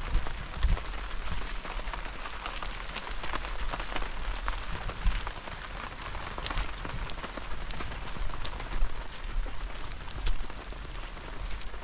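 Steady rain falling, a continuous hiss with many separate drops ticking through it and a low rumble underneath.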